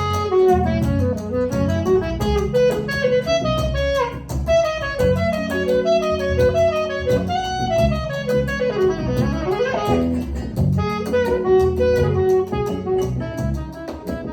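A live band plays an instrumental passage: a lead melody runs in quick phrases over a steady bass and chords.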